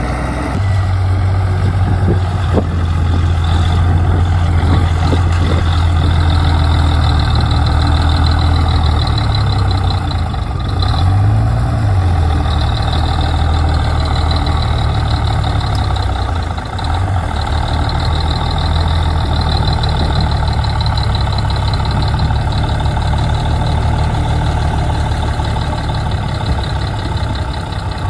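Bulldozer's diesel engine running steadily, with a brief rise and fall in engine speed about eleven seconds in.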